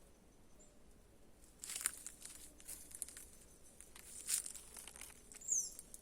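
Crackling rustles of dry leaves or twigs in a few short bursts, and a short high chirp falling in pitch near the end, from a small bird.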